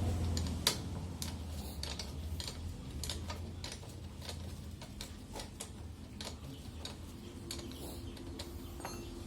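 Sharp clicks and ticks spaced unevenly, a few a second, over a faint low hum that fades during the first few seconds.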